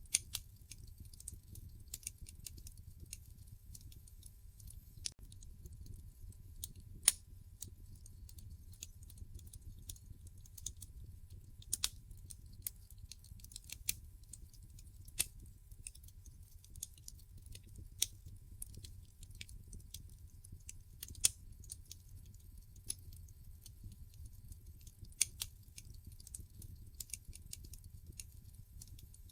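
Wood fire in a fireplace crackling: irregular sharp pops and snaps from the burning logs, a few louder ones among them, over a low steady rumble.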